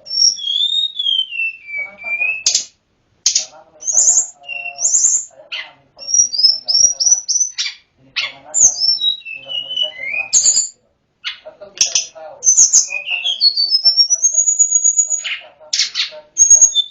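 Tledekan gunung songbird singing a long, varied song: high whistled phrases, sliding rising and falling notes and quick trills, broken by short pauses.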